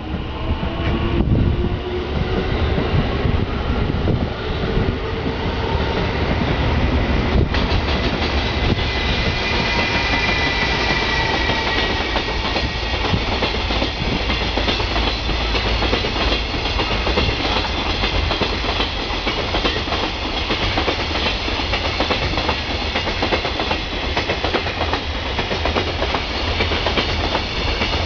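High-speed freight train hauled by an EF210 electric locomotive passing at speed. A pitched whine rises at the start, then the wagons roll by with a steady rumble and clatter over the rail joints. A thin high tone comes in about ten seconds in.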